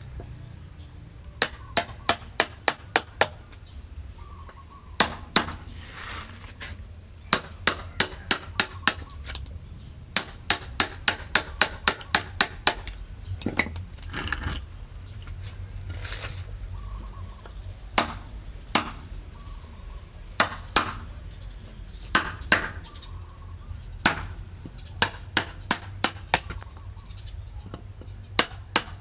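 A hammer striking repeatedly during carpentry work, in runs of quick ringing blows about three to five a second, separated by pauses and some single strikes.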